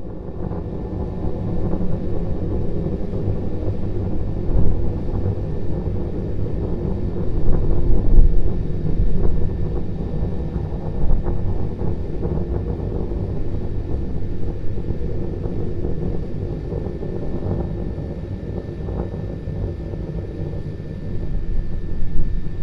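Starship SN9's Raptor methane rocket engines burning in flight, a loud, steady low rumble that swells and fades unevenly with crackle in it.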